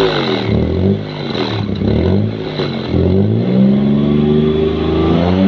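Maruti 800's three-cylinder petrol engine revved up and down several times. The exhaust sounds off because the rusted front silencer section is cracked inside, with carbon soot blown out at the crack.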